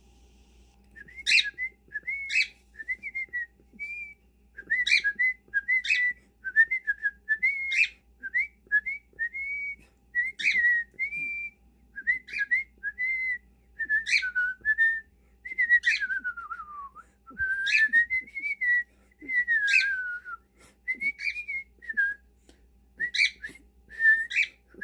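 Whistling: phrases of short, high whistled notes with quick pitch slides, each starting sharply, and one longer falling glide about two-thirds of the way through.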